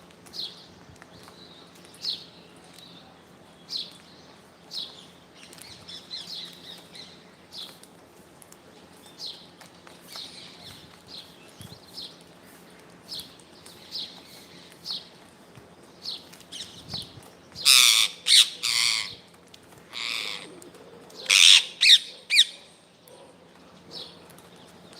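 Parrot calling: short high chirps about once a second, then two bursts of loud, harsh squawks in the second half.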